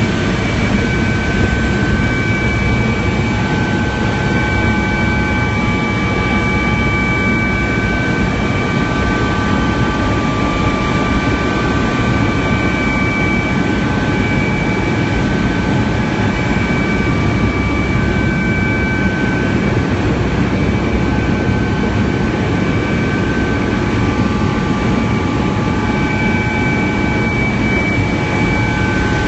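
Steady helicopter noise in flight, heard from inside the cabin: a constant drone of rotor and turbine, with a few high whining tones that fade in and out.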